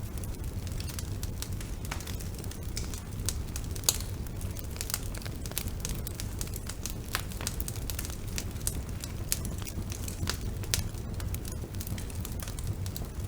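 Wood bonfire burning: frequent sharp crackles and pops over a steady low rumble, with one louder pop about four seconds in.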